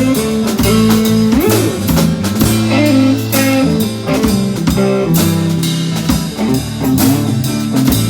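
Instrumental break of a blues-rock band song: guitar playing notes that bend up and down in pitch over a drum kit keeping a steady beat.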